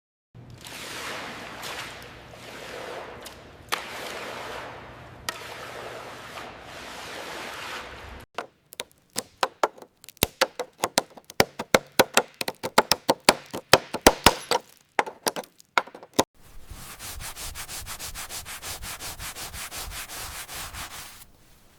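Workshop sounds. First comes a series of long rubbing strokes, like sanding or scraping. Just over halfway through, a quick run of sharp taps follows, then a steady rapid rattle from a power tool for about five seconds, which stops shortly before the end.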